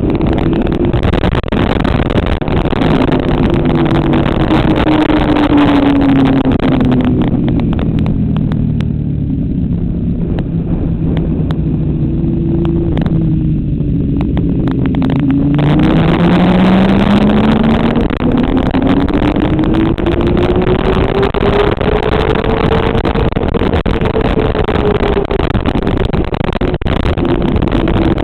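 Motorcycle engine at speed on a racetrack, mixed with heavy wind noise. The engine note falls for the first half as the bike slows for a corner, then climbs steadily for several seconds under acceleration and eases off near the end.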